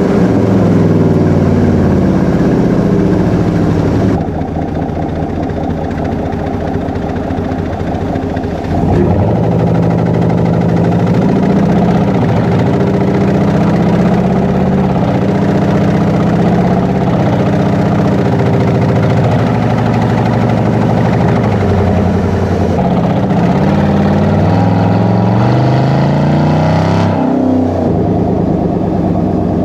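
Chevy Silverado 5.3-litre V8 through a Borla Atak crate-muffler true dual exhaust while driving. The exhaust note rises with the revs under acceleration and drops sharply at a gear change near the end, with steady cruising stretches in between.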